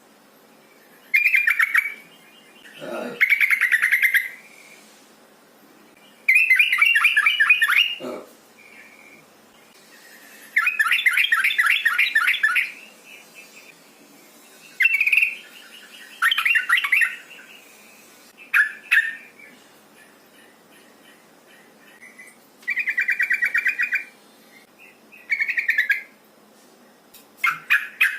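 Yellow-vented bulbul (trucukan) giving repeated bursts of rapid chattering calls, about ten bouts of one to two seconds each with short pauses between. These are the calls of a female answering a male, used as a lure to set caged males singing.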